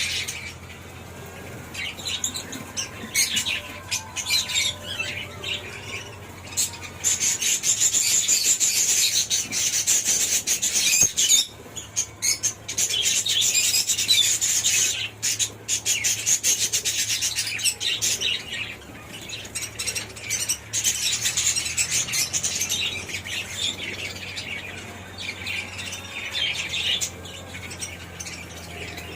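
Australian parrots chattering and chirping in a dense, rapid stream of high calls, busiest through the middle, with squawks mixed in.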